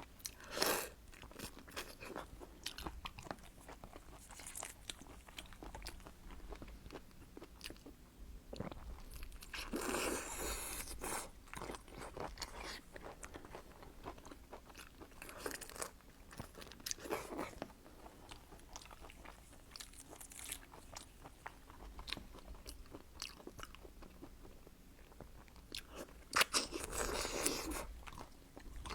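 Close-miked eating of seafood: steady chewing and small crunching clicks, with several louder crunching bursts, the longest around ten seconds in and near the end.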